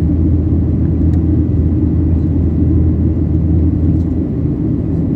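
Steady low cabin drone of a Boeing 737-800 in flight: engine and airflow noise heard from inside the passenger cabin.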